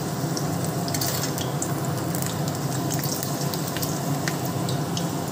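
A papad frying in hot mustard oil in a kadai: a steady sizzle full of small crackles and pops, over a steady low hum.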